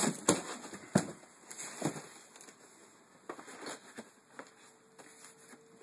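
Cardboard packaging being opened and handled: scattered sharp knocks and crackles, most of them in the first two seconds.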